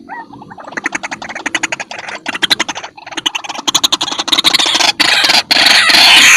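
White-breasted waterhen (ruak-ruak) calling: a rapid run of short notes, many a second, that grows steadily louder and merges into loud, harsh continuous calling near the end.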